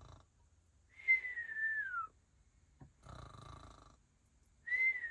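Sleeping breathing with a whistle: a rough intake, then a clear whistling out-breath that falls in pitch over about a second, twice, roughly every four seconds.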